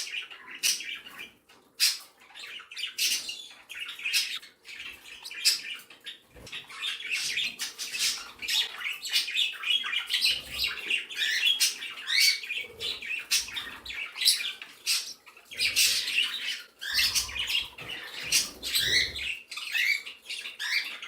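A mixed flock of pet budgerigars and other small cage birds chirping and chattering continuously, with short sharp calls.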